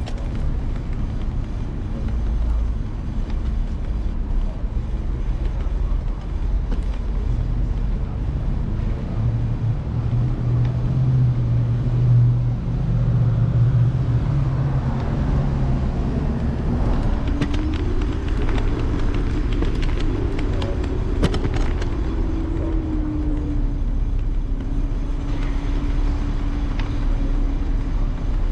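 City street traffic, with a steady low rumble of vehicles running. In the second half, a vehicle's hum rises and then falls in pitch, with a few sharp clicks.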